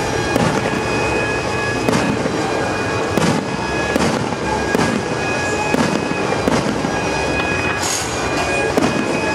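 Aerial fireworks shells bursting, a sharp bang roughly every second, over music with long held notes.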